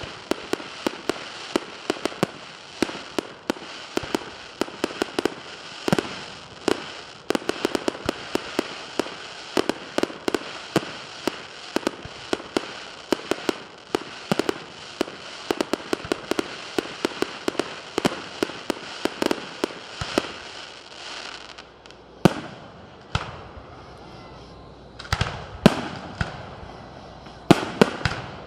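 Fireworks display: a dense run of rapid crackling pops over a steady hiss, then from about three quarters of the way through, sparser and louder single bangs.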